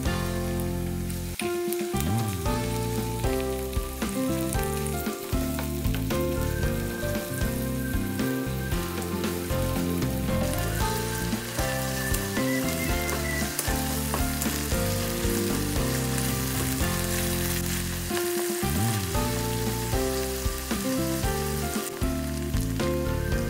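Food frying and sizzling in a hot pan during stir-frying, a steady hiss, under background music with a melody.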